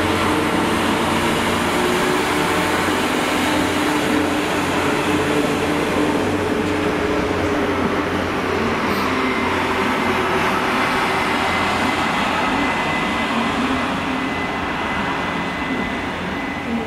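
A multi-car passenger train running past on a far track: a steady rumbling drone that fades slightly near the end as the train moves away.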